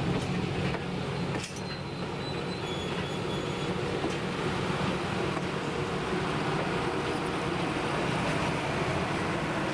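Train running along the rails, a steady rumble of the moving cars and wheels.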